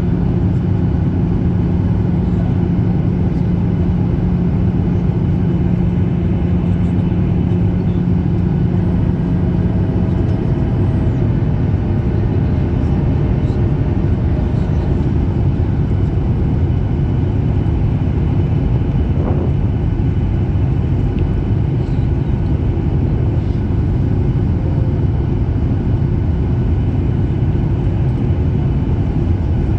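Cabin noise inside a Ryanair Boeing 737: steady engine and airflow noise heard from a seat by the wing. A low steady hum in it drops out about ten seconds in.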